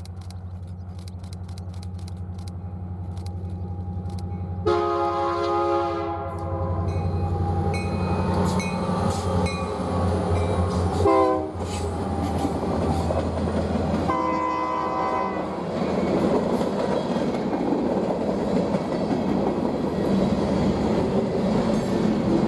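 BNSF freight train's diesel locomotive approaching with a steady engine drone, then sounding its multi-chime horn in several blasts. The horn's pitch drops as the locomotive passes about eleven seconds in, and the rumble and clatter of the passing cars follow.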